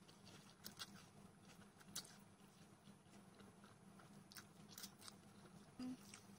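Near silence with faint chewing and a few soft clicks while a person eats.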